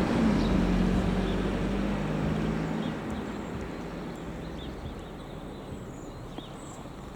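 ČD class 810 railcar passing close by: its diesel engine drone is loud at first, then fades over about three seconds to a steady rumble as it moves away.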